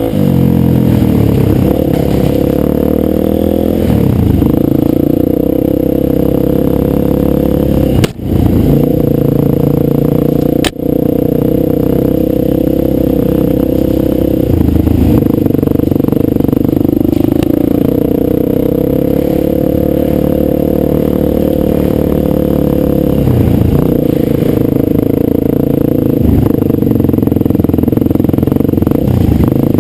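Dirt bike engine running at varying throttle, its pitch rising and falling. The sound cuts out sharply for a moment twice, about eight and ten and a half seconds in.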